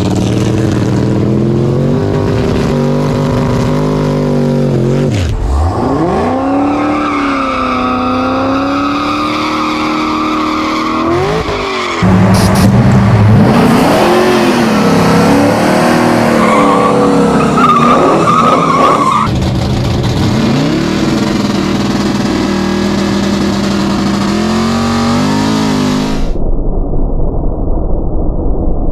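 Drag-race car engines revving hard and accelerating, in several short back-to-back cuts, the pitch falling and climbing again between shifts. The last few seconds sound muffled.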